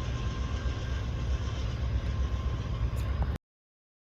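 A train passing close by, with a steady low rumble and faint thin whining tones over it. The sound cuts off abruptly about three and a half seconds in.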